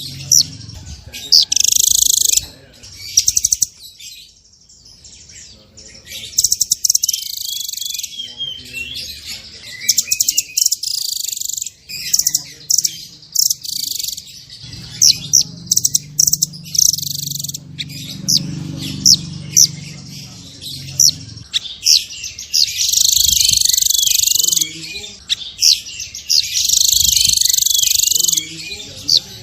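Blue nuthatch calling: sharp, high-pitched chip notes and bouts of fast repeated notes, broken by short pauses.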